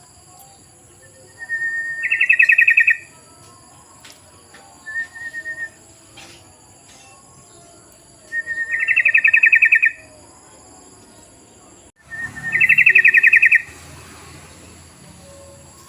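Yellow-vented bulbul song: three bubbly phrases every three to four seconds, each a short lead note running into a rapid chattering trill, with one brief short note between the first two. Faint steady high-pitched tones run underneath.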